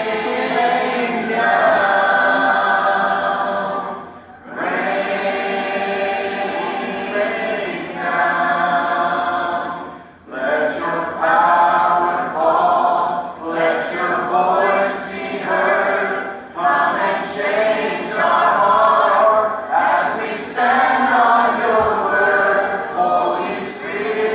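Voices singing a cappella in choral harmony, sustained phrases with short breaks about four and ten seconds in.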